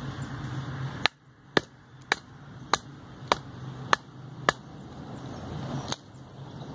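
Sharp wooden knocks of a full-convex bushcraft knife splitting a small piece of firewood: seven strikes in a steady rhythm, a little under two a second, then one more after a short pause.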